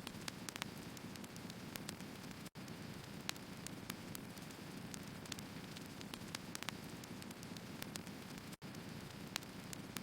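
Wood fire burning: a steady low hiss with many irregular sharp crackles and pops from the logs. The sound drops out for an instant twice, about two and a half seconds in and near the end.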